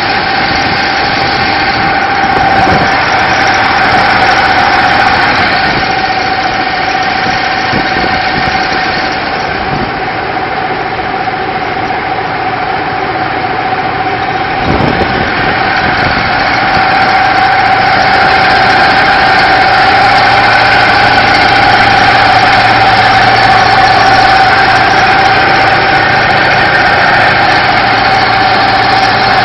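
LIFAN 2V77F V-twin petrol engine driving a boat through a reduction gearbox, running steadily with a high steady whine over the engine note. It grows a little louder about halfway through.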